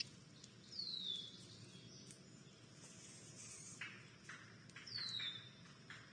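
A wild bird calling twice, each a clear whistle sliding down in pitch, about four seconds apart. A few short, soft scratchy sounds come between the two calls.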